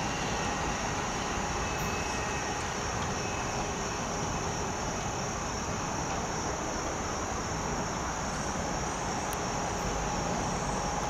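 Metro-North electric commuter train pulling away from the station, a steady rumble and hiss that stays even throughout.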